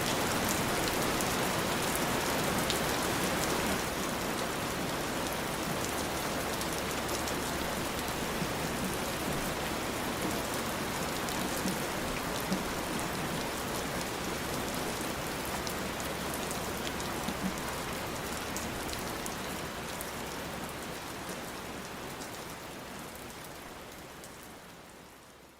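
Steady rain falling on a surface, a dense even hiss with scattered individual drop ticks. It fades out gradually over the last few seconds.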